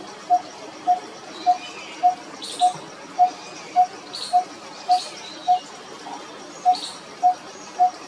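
A bird calling one short note over and over at an even pace, a little under two notes a second, with a few fainter, higher calls now and then.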